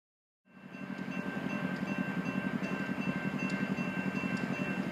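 Steady low rumble of a diesel train locomotive running, with faint high whining tones, fading in after half a second of silence.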